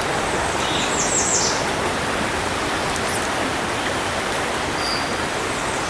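Fast-flowing river water rushing steadily over a shallow riffle, with a bird chirping briefly a couple of times over it.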